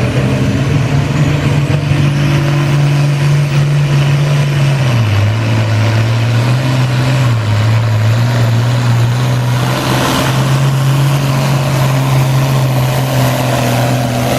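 International Harvester Farmall 966 tractor engine running hard while pulling the weight-transfer sled, its pitch sagging about five seconds in and recovering a couple of seconds later, then dipping again near the end.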